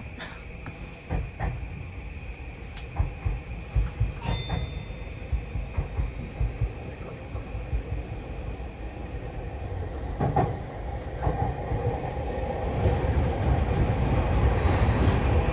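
Tokyu 3020 series commuter train running, heard from inside the leading car. Its wheels click and knock over rail joints in the first half, and the running noise grows steadily louder through the second half.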